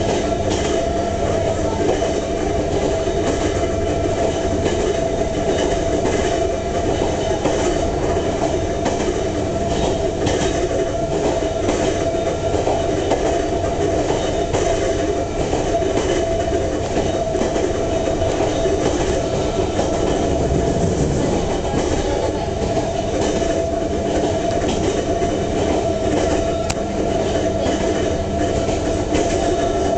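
Ohmi Railway Moha 220-series electric railcar running steadily, heard from inside the car. The whine of its nose-suspended (tsurikake) traction motor drive holds one steady tone over the rumble of the wheels, with occasional clacks over rail joints.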